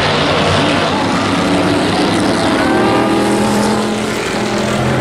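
Several hobby-class race trucks' engines running hard around an oval track, their overlapping pitches rising and falling as they accelerate and lift.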